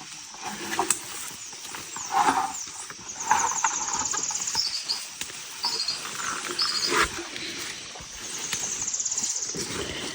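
Birds calling: short high chirps and down-slurred notes, with two fast high trills, one a few seconds in and one near the end. Scattered sharp clicks and knocks sound alongside.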